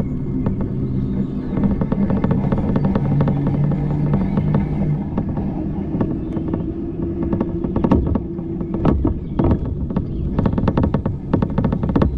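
A motor vehicle's engine hums steadily over a constant low rumble of road and wind noise, with many short clicks and rattles that come thicker in the last few seconds.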